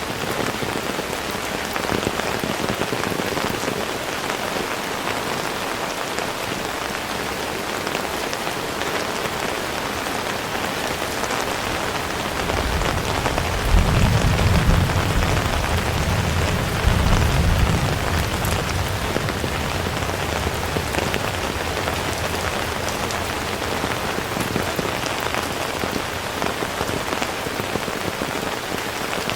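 Heavy rain falling steadily in a dense hiss. About halfway through, a low rumble rises and lasts several seconds, peaking twice before it fades.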